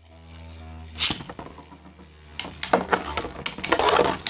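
3D-printed Beyblade tops spinning in a stadium with a steady humming whir. There is a sharp clack about a second in, then a rapid run of clattering hits as the tops clash in the second half.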